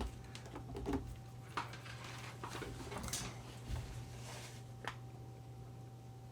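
Scattered light clicks, knocks and rustles of test leads and connectors being handled while they are moved to the multimeter's rear input terminals, over a steady electrical hum from the bench equipment.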